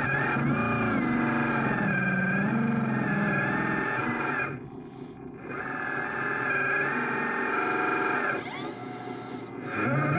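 Electric motor whine from an RC construction model working, its pitch rising and falling with the load. It stops briefly about four and a half seconds in and drops lower again near the end.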